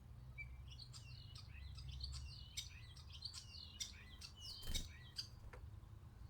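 A small songbird singing a quick, varied twittering song of chirps and trills for about four seconds, with a single knock near the end.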